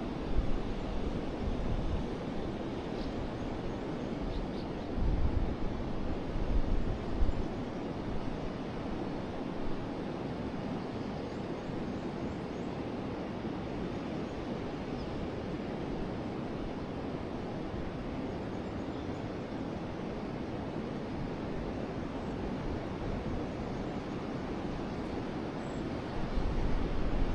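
River water flowing with a steady, continuous rush. Low rumbles of wind buffeting the microphone come and go, about five to seven seconds in and again near the end.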